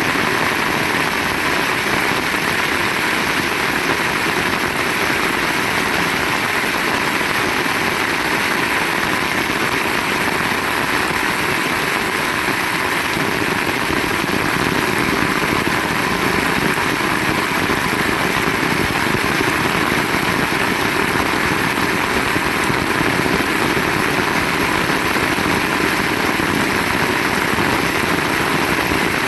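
Heavy rain falling steadily, a dense even hiss with no breaks and no thunderclaps.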